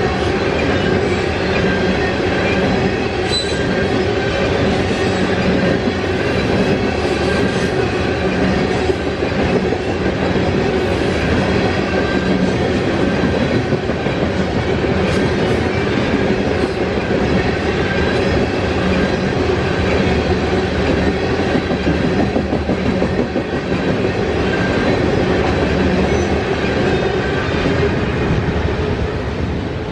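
Freight cars of a Norfolk Southern train rolling steadily past, wheels clattering on the rails with some faint wheel squeal.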